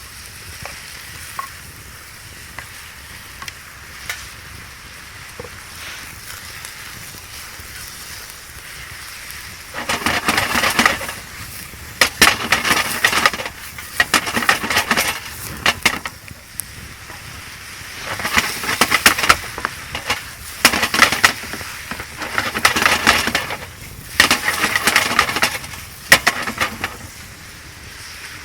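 Food frying in a pan and being stirred, in repeated bouts of crackly scraping a second or two long, starting about ten seconds in.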